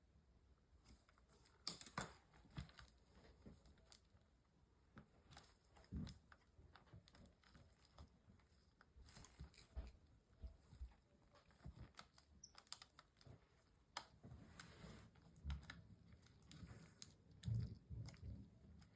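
Faint, irregular clicks and light taps of small tools and parts being handled on an opened MacBook Pro during a battery replacement.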